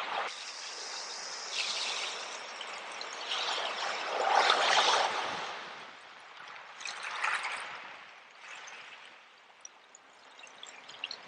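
Small sea waves washing in and draining back over the shore, with trickling water; the biggest wash swells about four seconds in, a smaller one follows, and it quietens toward the end.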